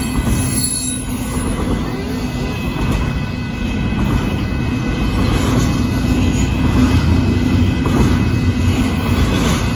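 Union Pacific intermodal freight train's container cars rolling past: a continuous rumble of steel wheels on rail, growing somewhat louder from about four seconds in.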